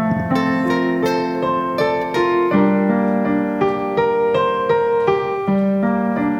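Piano playing the slow instrumental introduction of a song: gentle broken chords, one note struck after another, over low notes that change every few seconds.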